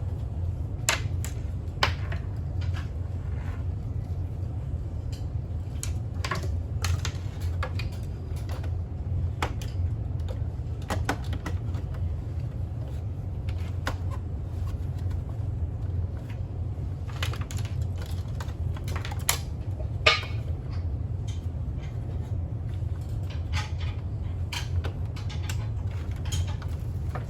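Irregular light clicks and knocks, with one sharper knock about 20 seconds in, over a steady low hum.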